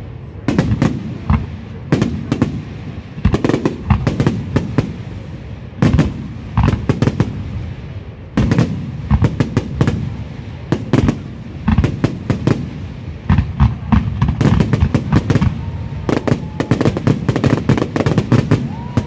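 Aerial firework shells bursting, a long irregular run of sharp bangs, some in quick clusters, coming thicker and faster in a dense barrage near the end.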